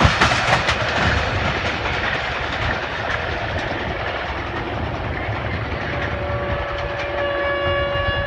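Passenger train rolling past, with steady running noise and wheels clattering over rail joints in the first second. About six seconds in, a steady high tone with overtones sets in and holds.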